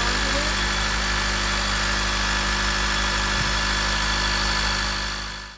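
2013 Honda Accord's engine idling steadily, heard from the open engine bay; the sound fades out near the end.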